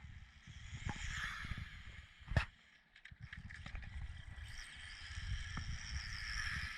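Onboard audio from a Tamiya TT-01 electric RC touring car running on track: steady rumble from the chassis and wind, with a hiss that swells and fades and a faint whine from the motor and gears. There is one sharp knock about two and a half seconds in.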